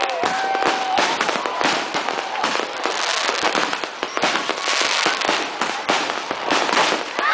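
Fireworks display going off: many shells and rockets bursting at once, a dense run of bangs and crackling without a break.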